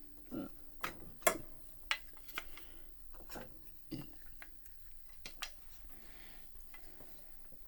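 Wooden spinet piano keys clicking and knocking as they are handled and lifted on the keybed: about a dozen irregular, sharp taps.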